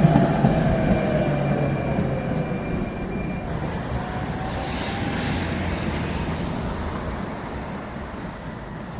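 Tram in motion: a low rumble with a faint falling electric-motor whine, growing gradually quieter.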